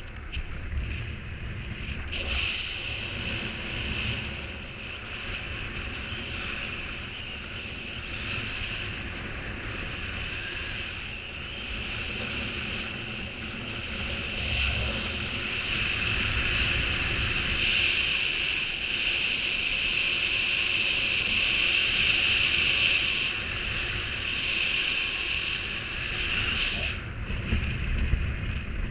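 Strong wind buffeting the microphone: a steady rushing hiss over a low rumble, growing somewhat louder past the middle.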